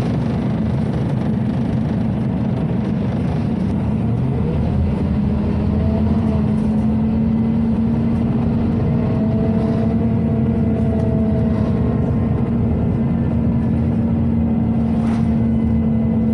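Scania OmniCity city bus heard from inside while driving: a steady ventilation hum over the engine's low rumble, with faint whining tones that rise and fall.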